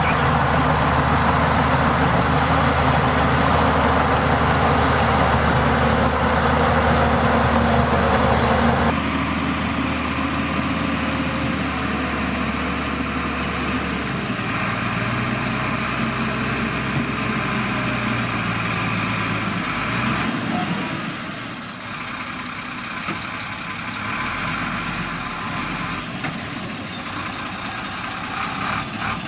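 Heavy diesel earthmoving machinery running, a bulldozer or dump truck engine with a steady low hum. About nine seconds in it cuts abruptly to quieter engine sound, which shifts a few more times.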